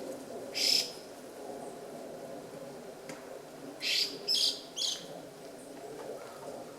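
Chinese hwamei giving short harsh calls: one about half a second in, then three in quick succession around four seconds in. A low steady background hum runs underneath.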